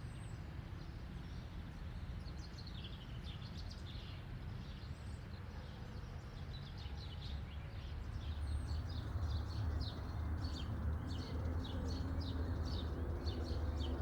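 Small birds chirping over a steady low rumble, the chirps coming thicker and louder in the second half.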